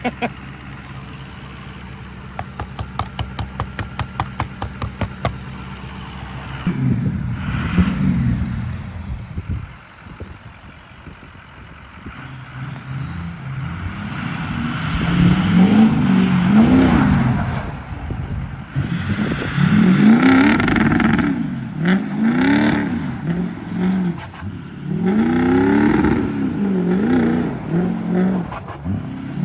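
Diesel pickup engine idling under a quick run of ticks. About seven seconds in, the sound changes sharply to the engine revving up and down over and over, with high whistling glides above it.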